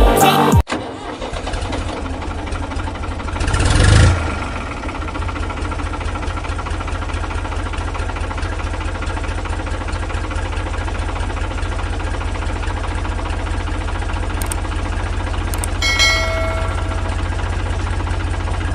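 An engine idling with a steady, even low putter. It revs up briefly about three to four seconds in, then settles back to idle. A short higher tone sounds near the end.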